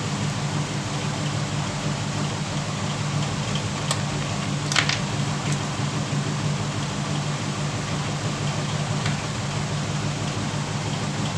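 Steady machine hum from a running fan or motor, with an even hiss and a couple of faint clicks about four and five seconds in.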